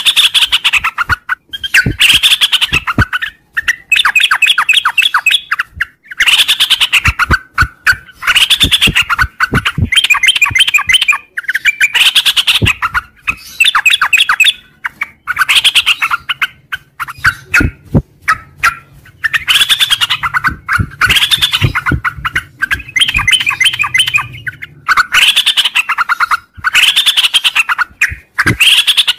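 Yellow-vented bulbul (trucuk) singing its long chattering 'ngropel' song: rapid runs of bright notes in phrases of a second or two, repeated over and over with short pauses between.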